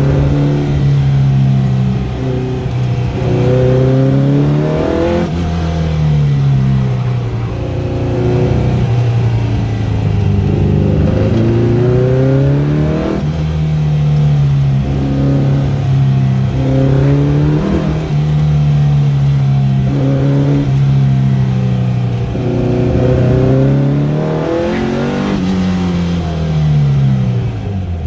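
1955 Volkswagen Beetle's air-cooled flat-four engine, heard from inside the car, pulling hard through an autocross course: its note repeatedly climbs under acceleration and drops off between cones. Near the end the pitch falls away steeply as the car slows.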